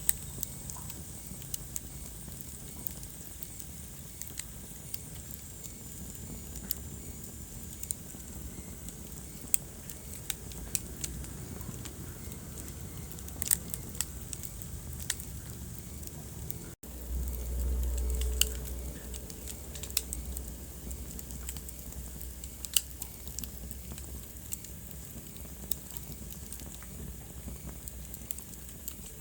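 Wood fire crackling, with scattered sharp pops over a low rumble. About seventeen seconds in, the sound cuts out for an instant, and the low rumble is louder for the next couple of seconds.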